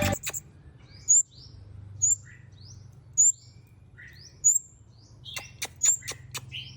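A small songbird calling over and over, a short high chirped phrase about every second and a quarter. A few sharp clicks come near the end, over a faint low hum.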